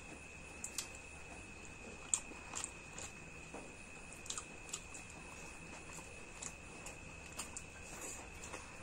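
Close-miked eating sounds: chewing and biting food, with irregular small wet mouth clicks. A faint steady high-pitched tone runs behind them.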